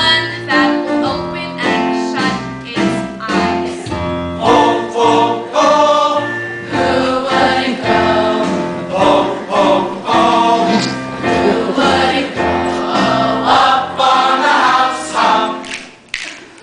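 A choir singing a song with piano accompaniment, in continuous held and moving sung notes.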